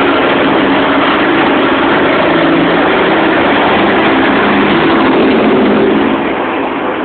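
Heavy truck engines running loudly and steadily as trucks pass close by, easing off slightly near the end.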